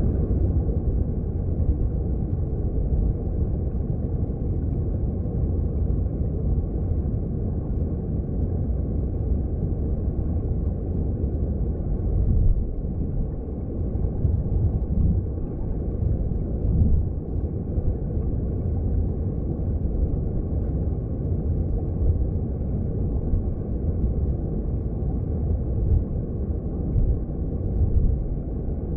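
Stream water heard underwater through a hydrophone: a steady, deep rumble of flowing current.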